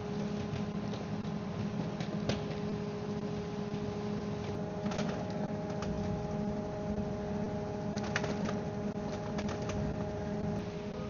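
A machine running steadily with an even hum, with scattered light knocks and clicks over it.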